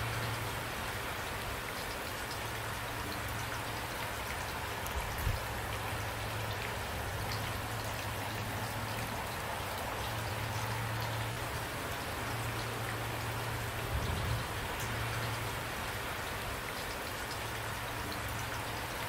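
Steady rain falling, a dense, even hiss of drops, with a couple of brief soft low thumps.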